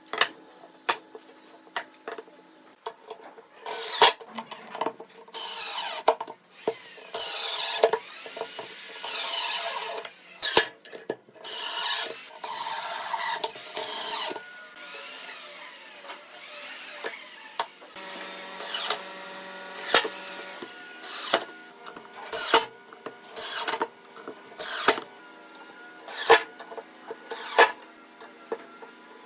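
Power drill running in repeated short bursts, its motor whining up and down, with sharp knocks between runs.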